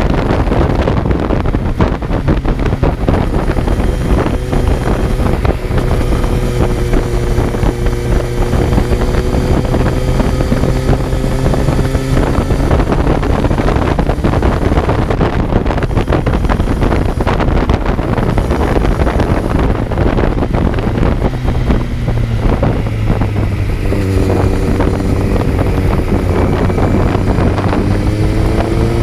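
Kawasaki Z900's inline-four engine running on the move, heard onboard under heavy wind rush on the microphone. The engine note climbs slowly for several seconds, fades into the wind around the middle, and rises again over the last few seconds.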